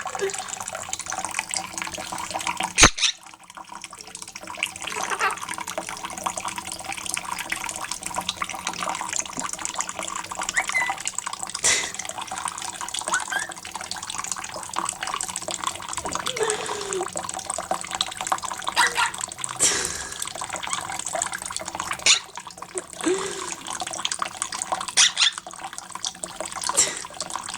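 Running water and splashing as a quaker parrot bathes, with many short sharp splashes scattered through it and a loud click about three seconds in.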